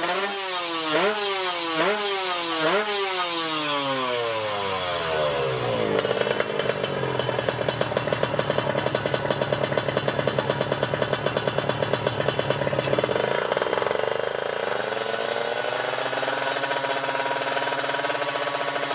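Racing motorcycle engine: three quick throttle blips in the first few seconds, then the revs falling away; a rough, rapidly pulsing idle for several seconds, then the revs rising slowly near the end.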